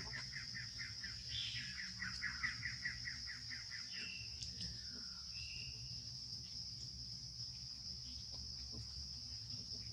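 Steady, high-pitched drone of insects such as crickets or cicadas, with a bird's rapid run of repeated chirps, about six a second, over the first three and a half seconds, then a few short single calls. A low steady rumble lies underneath.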